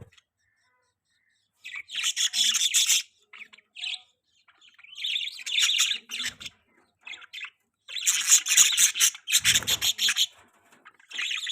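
Budgerigars chirping and chattering in bursts of a second or two, with short pauses between.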